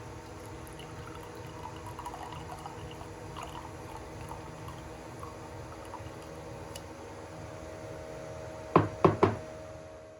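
Steady machine hum with several steady tones and faint scattered clicks, then three sharp knocks in quick succession near the end.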